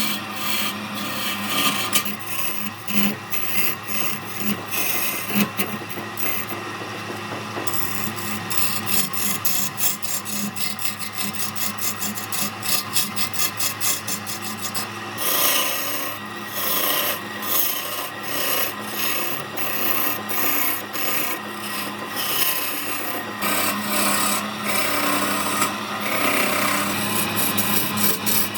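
Wood lathe running with a steady hum while the spinning wood-and-epoxy blank is worked with a scraping, uneven texture of rapid strokes. The scraping turns harsher and brighter about halfway through.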